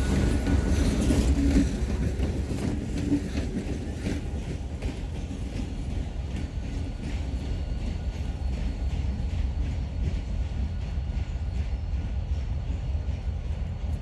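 Two diesel locomotives rumbling past, their wheels clicking over the rail joints. The sound drops after about two seconds and carries on as a lower, steady rumble as the train moves away.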